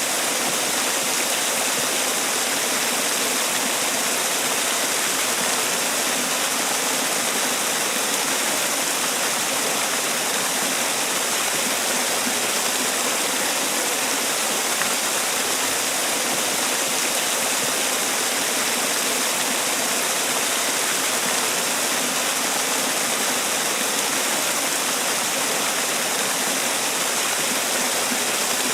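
Man-made waterfall: water falling and splashing in a steady, even rush that does not change.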